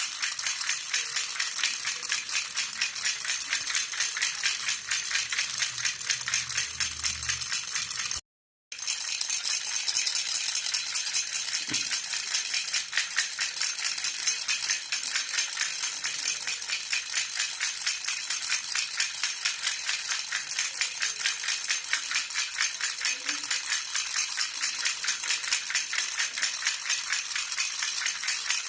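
A jhunjhuna baby rattle shaken steadily and rapidly, a continuous bright jingling rattle. The sound breaks off for about half a second roughly eight seconds in, then resumes.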